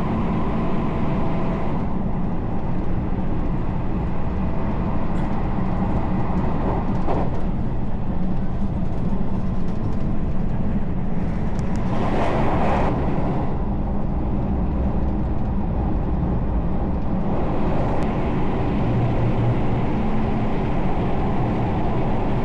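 Local train running along the track with a steady rumble of wheels on rails and a low hum. About twelve seconds in, a brief louder rush of noise passes.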